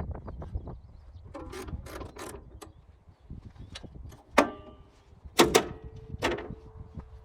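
Metal knocks and clanks, several leaving a short ringing tone, as parts of a Wood-Mizer LT20 bandsaw mill are handled during a blade change. The loudest knocks come a little past halfway and again about a second later.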